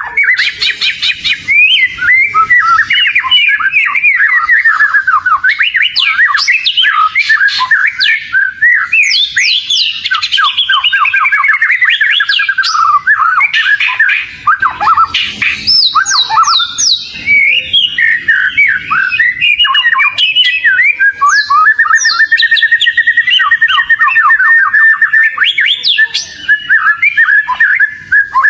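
Oriental magpie-robin (kacer) singing without pause: a fast, varied stream of whistles, trills and harsh squawky notes, with quick runs of repeated notes and several falling sweeps.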